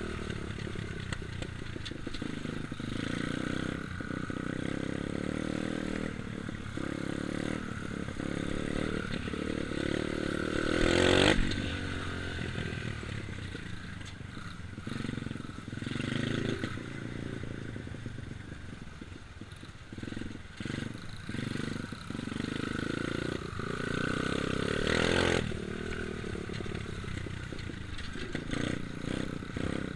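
Dirt bike engine running, its pitch rising and falling with the throttle, swelling louder twice: about a third of the way in and again late on.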